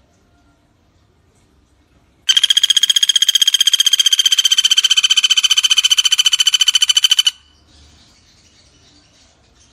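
Pelatuk bawang woodpecker giving one long, rapid rattling trill at a steady pitch, about five seconds long, starting about two seconds in, over faint background calls.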